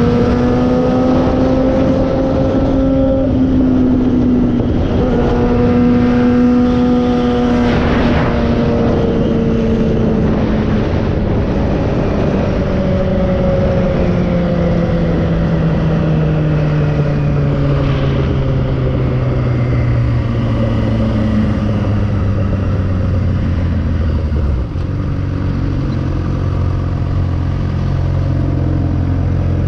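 Inline-four engine of a 2009 Suzuki GSX-R 600 with an M4 exhaust, heard from on board the moving bike with wind noise. It holds a steady high note with a brief break about three seconds in, then its pitch falls gradually from about twelve seconds as the bike slows. It settles into a low steady note near the end.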